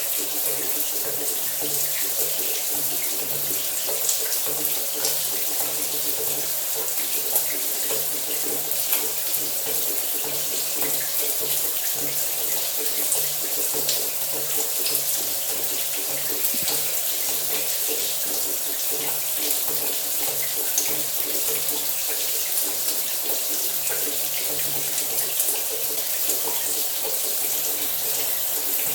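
Shower running steadily, with water spraying and splashing. Scattered small droplet splashes stand out above an even hiss.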